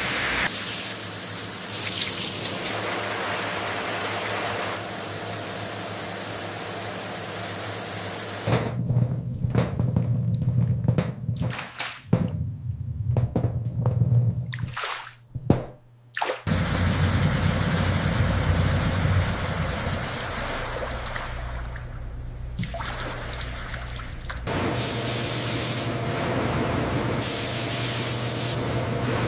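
Processing-plant sound of rushing, splashing water and a low machine hum, changing abruptly several times as separate segments follow one another.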